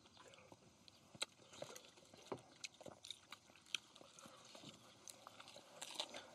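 People quietly chewing and biting into grilled pork belly lettuce wraps, with scattered soft crunches and wet mouth clicks.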